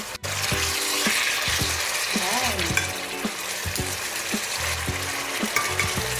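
Marinated chicken pieces sizzling and frying in oil in a pan, a steady hiss, with background music playing underneath.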